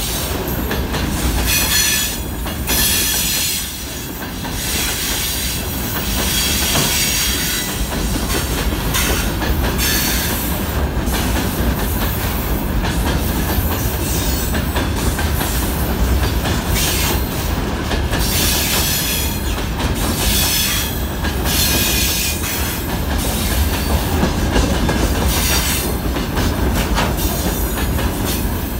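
Freight train of open-top gondola wagons rolling past close by: a steady low rumble of steel wheels on the rails, with clatter over the rail joints and high-pitched wheel screech coming and going.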